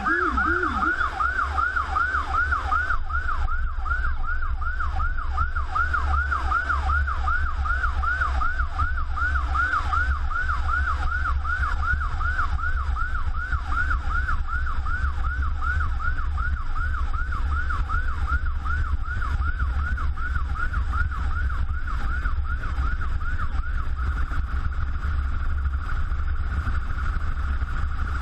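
Electronic emergency-vehicle siren on a fast yelp, about two and a half sweeps a second, over the low rumble of the vehicle heard from inside the cab. Near the end the sweeps give way to a steadier warbling tone. About a second in, a second, lower-pitched siren also sweeping drops out.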